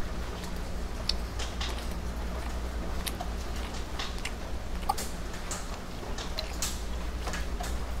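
Rain dripping: scattered, irregular drips and light ticks over a steady low hum.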